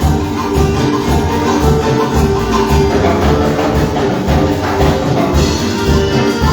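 Live worship band music with a steady drum beat and sustained instrumental notes, no singing.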